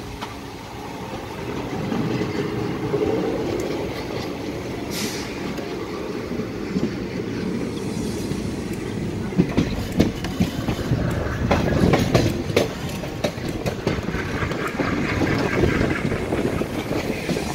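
Passenger train coach running along the track: a steady rumble of wheels on rails with clicks over the rail joints. The clicks come thickest and loudest about ten to thirteen seconds in.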